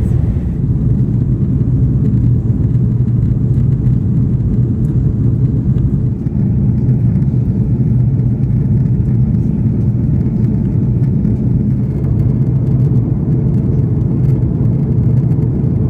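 Steady, loud rumble of the engines and airflow heard inside the cabin of a Lufthansa Airbus A340-600, a four-engined airliner with Rolls-Royce Trent 500 engines.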